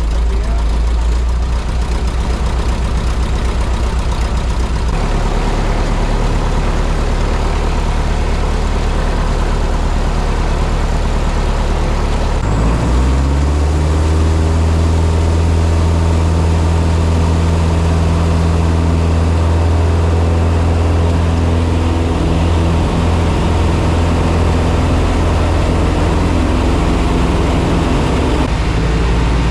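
Piper Super Cub's piston engine and propeller running at idle after the start, then throttled up about twelve seconds in, the pitch rising quickly and holding steady at higher power.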